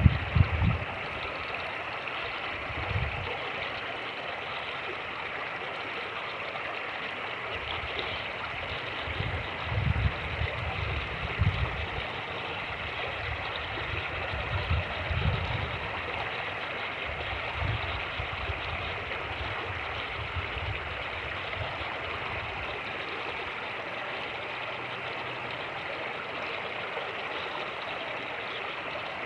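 Fast-moving creek rushing steadily, with irregular low thumps of wind buffeting the microphone every few seconds.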